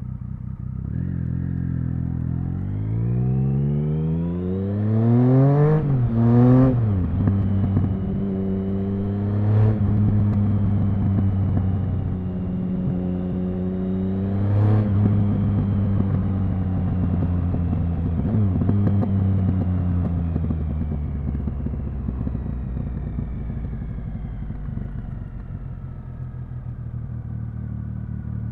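Triumph Speed Triple 1050's three-cylinder engine pulling hard, its pitch climbing steeply for a few seconds, with a sharp change in pitch about six seconds in. It runs fairly steady with brief breaks near ten and fifteen seconds, then its pitch falls slowly as the bike slows.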